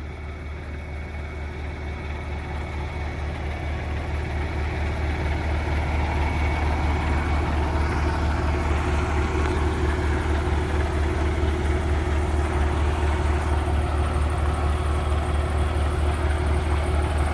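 Semi-truck day cab's diesel engine idling steadily with a low, even hum, growing louder over the first several seconds and then holding level. The owner calls it quiet.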